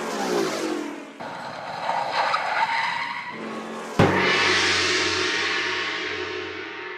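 Sound effects of a car: engine and tyres skidding, then a sudden crash about four seconds in that fades away slowly.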